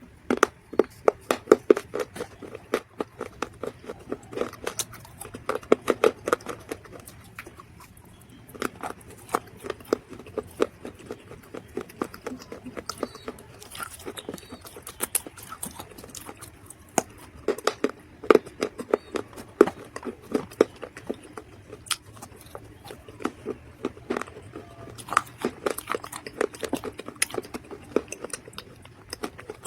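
Dry mud being crunched close-up: dense bouts of sharp, crackly crunches every few seconds, with quieter, sparser crackles in between.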